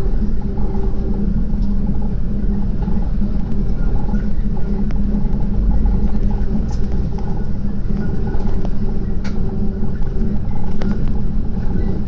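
Steady low rumble and hum of a diesel railbus running at speed, heard from inside the carriage, with a few faint clicks and rattles.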